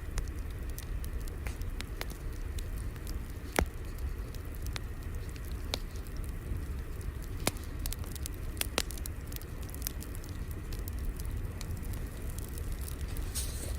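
Wood fire crackling: irregular sharp pops and snaps over a steady low rumble, with one louder pop about three and a half seconds in.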